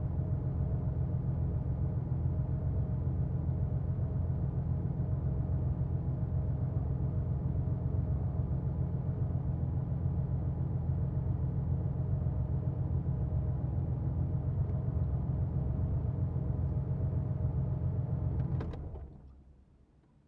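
1990 Porsche 911's air-cooled flat-six idling steadily, then switched off near the end: a click, and the engine runs down to silence within about a second.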